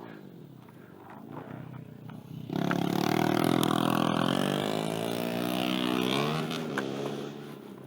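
Small pit-bike engine running, faint at first, then suddenly louder about two and a half seconds in, its pitch rising and falling with the throttle before it fades near the end.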